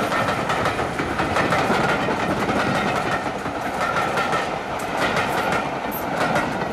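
A train running past on the rails: steady running noise with a faint steady whine, and wheels clicking over the rail joints in quick repeated groups that grow sharper in the second half.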